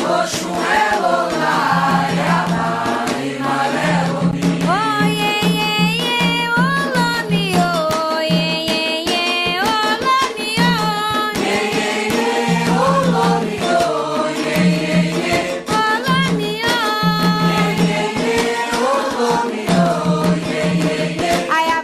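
Candomblé ritual song for the orixás: voices singing a Yoruba chant over a steady beat of hand drums struck in dense, sharp strokes.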